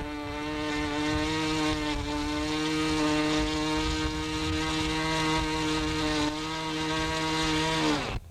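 A small high-revving engine runs at a steady high speed, then winds down in pitch and stops just before the end.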